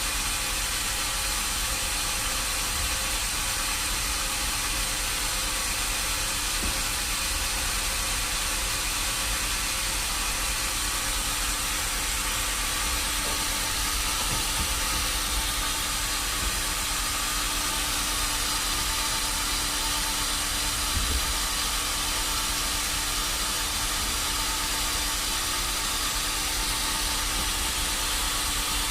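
Sawmill machinery running steadily: an even hiss over a constant hum, with a few faint ticks.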